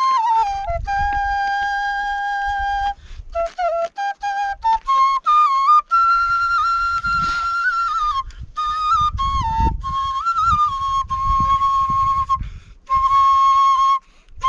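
Murali (bamboo flute) played solo, a folk melody of held notes and short runs broken by brief pauses for breath. A low rumble sits underneath at times.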